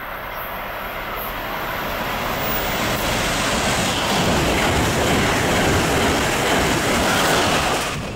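Amtrak electric passenger train passing through the station at speed without stopping. The rush of wheels on rail and air builds over the first few seconds, stays loud, then drops off sharply near the end as the train goes by.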